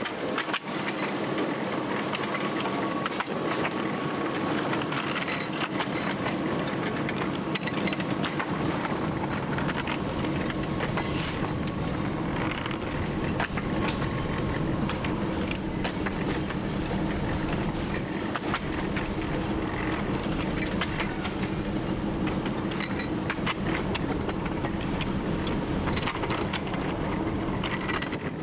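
TU7 narrow-gauge diesel locomotive under way: a steady engine drone, with the wheels clicking irregularly over rail joints. A faint thin whine runs through the first half.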